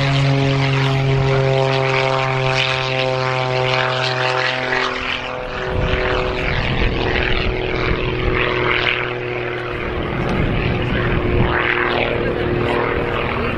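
Display aircraft making a low pass. Its engine drones steadily, then drops in pitch about five seconds in as it goes by, followed by a rushing noise at the lower pitch.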